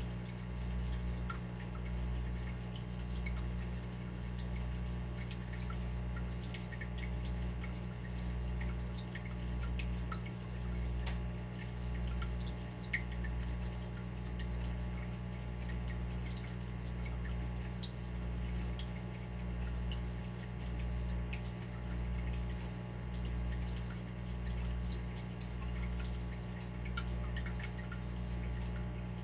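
Water dripping and trickling in many small scattered drops, over a low hum that swells and fades about every second and a half.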